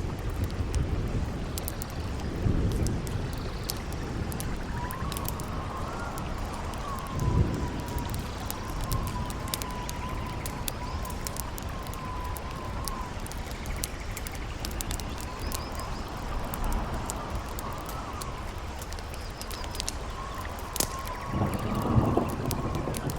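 Howling wind with a wavering, whistle-like moan that rises and falls, over a campfire crackling with sharp pops and a steady rushing haze. A few low rumbles swell and fade, the strongest near the end.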